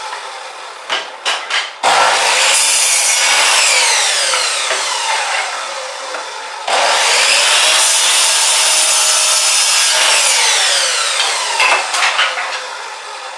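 Electric chop saw switched on twice, each time starting suddenly and cutting through wood, then winding down with a falling pitch. There are a few sharp clicks before the first start and again near the end.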